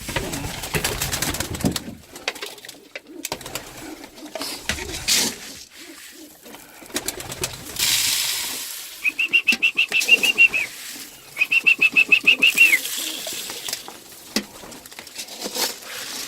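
Pigeons cooing, with rustling and scattered clicks as feed is put out among them. Two rapid, high-pitched trills come about nine and eleven seconds in.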